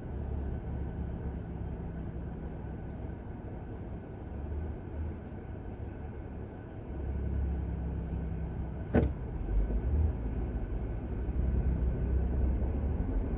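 Road and engine rumble inside a moving car's cabin, growing louder after about seven seconds, with one short knock about nine seconds in.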